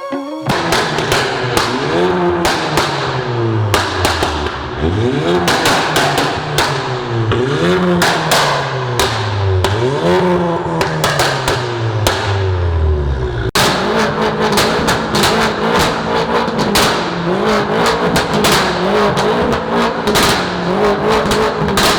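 A car engine revved again and again, its pitch climbing and falling back about every two seconds, with many sharp cracks over it. About thirteen seconds in the sound changes abruptly to a steadier engine note, still peppered with cracks.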